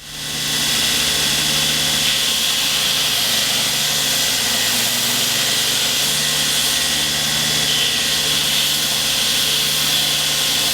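Belt grinder spinning up and running steadily as a knife handle block is ground against it, knocking off the corners and rounding it into a rough oval.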